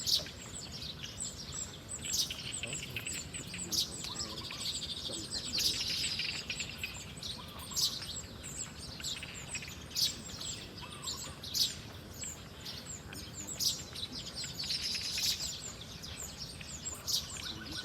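Small birds chirping: many short, sharp high calls in quick succession, with stretches of denser chatter.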